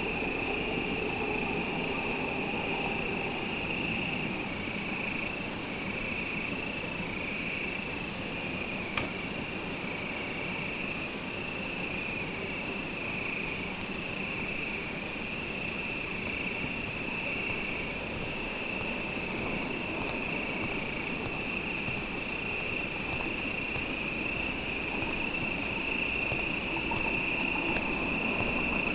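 Insects calling in chorus: a steady high trill together with a higher, evenly pulsing chirp, over a low steady rumble. A single short click about nine seconds in.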